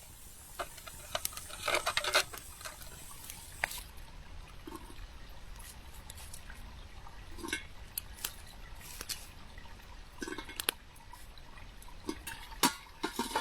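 Small wood cooking fire crackling, with irregular sharp clicks and pops over a low steady background.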